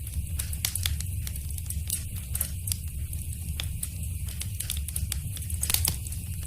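Wood fire crackling in a fireplace: irregular sharp snaps and pops over a steady low rumble of the flames, with one louder pop near the end.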